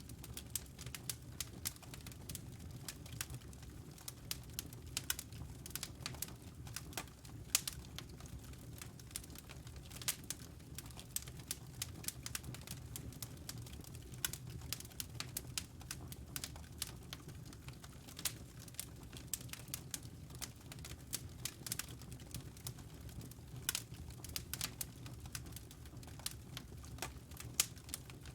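Wood fire burning in a fireplace, crackling with many sharp, irregular pops and snaps over a low steady rumble.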